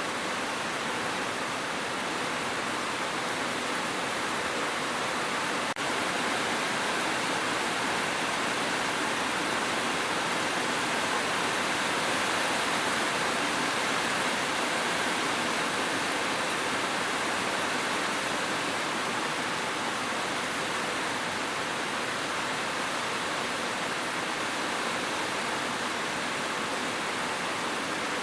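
Steady heavy rain, an even unbroken hiss with no distinct drops or thunder, with one tiny break about six seconds in.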